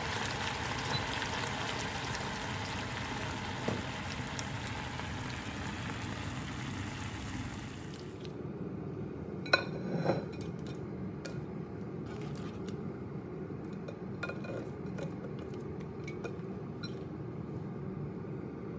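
Garlic butter sauce with lobster halves simmering in a frying pan, a steady bubbling hiss that thins out and quietens about eight seconds in. After that, tongs clink against the pan and a plate several times as the lobster halves are lifted out.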